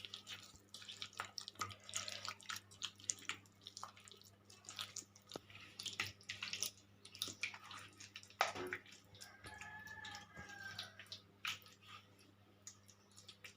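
Hands mixing chicken pieces in a wet yogurt-and-spice marinade in a bowl: faint, irregular wet squelches and soft clicks as the masala is rubbed over the meat.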